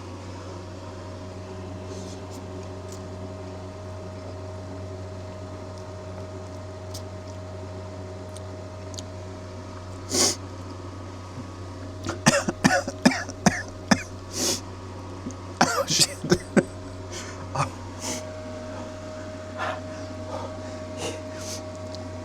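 A person eating spicy ramen noodles: clusters of short, sharp slurps and coughs, thickest a little past the middle, brought on by the chili heat, over a steady low hum.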